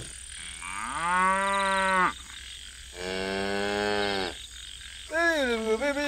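A cow mooing twice, each moo over a second long: the first rises and then holds, starting about half a second in; the second comes about three seconds in.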